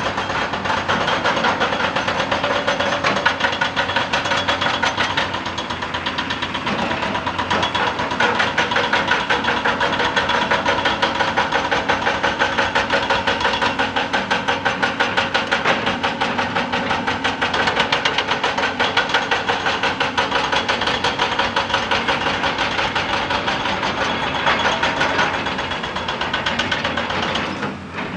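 Excavator-mounted hydraulic rock breaker hammering rock in a rapid, steady stream of blows, with the excavator's diesel engine running underneath. The hammering eases off briefly near the end.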